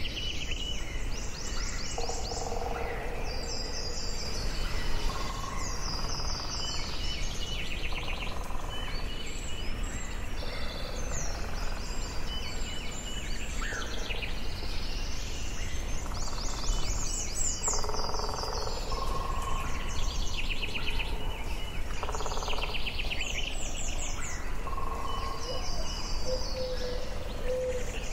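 Forest ambience: several birds singing and calling, overlapping fast high trills and short clearer whistled notes, over a steady low background noise.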